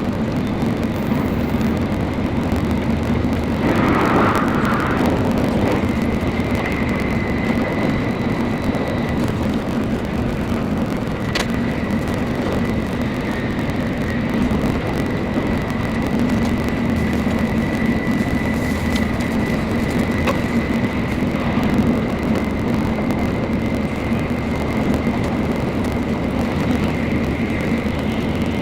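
Tokaido Shinkansen Nozomi train running at speed, heard from inside the carriage: a steady low rumble with a faint constant high whine. About four seconds in there is a brief louder rush.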